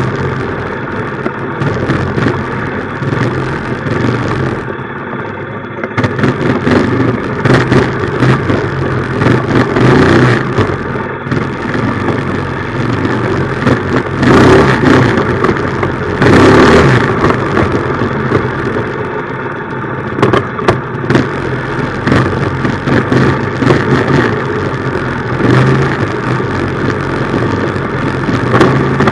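Minibike's small engine running as the bike is ridden, its loudness swelling and easing with the throttle, under a steady rushing noise that surges strongly twice about halfway through.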